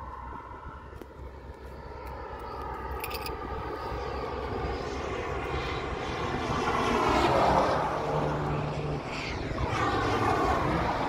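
Car engines on the race track's straight, growing louder as the cars approach, with the engine note dropping in pitch as they pass about nine to ten seconds in.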